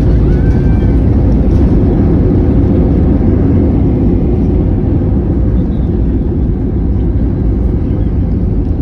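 Loud, steady low rumble of an airliner heard from inside the cabin during landing: engine and airflow noise, easing slightly past the middle.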